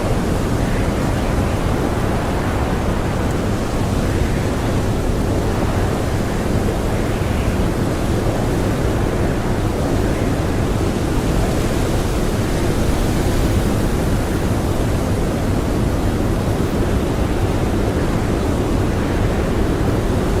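Blizzard wind blowing strongly and steadily, a dense rushing noise heaviest in the low end.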